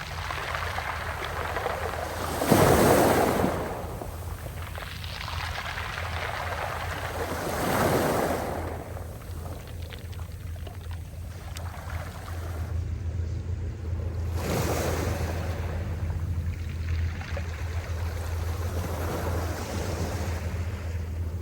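Sea waves washing in: three swells a few seconds apart, the loudest about three seconds in, over a steady low hum.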